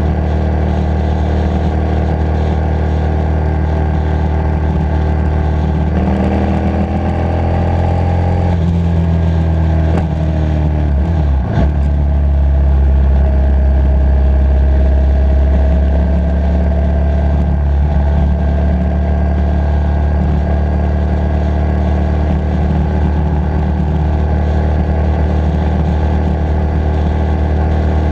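Motorcycle engine running under way. Its pitch rises for a couple of seconds around six seconds in, then falls back, and it runs a little louder from about twelve seconds in.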